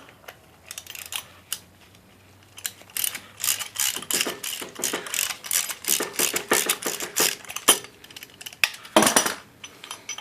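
Metal clicking and rattling as a 12 mm steel nut is run down an exhaust-manifold stud on a 4G63 cylinder head. A few scattered clicks at first, then a fast run of clicks from about three seconds in, and one louder clack near the end.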